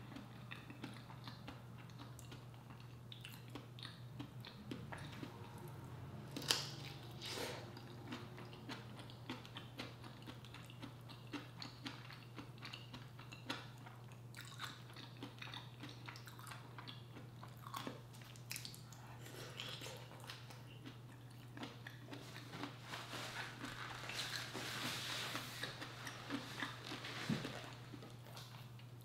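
Close-miked chewing, smacking and biting sounds of a person eating a seafood boil in sauce, with frequent small wet clicks and a sharp louder click about six and a half seconds in. A steady low hum runs underneath.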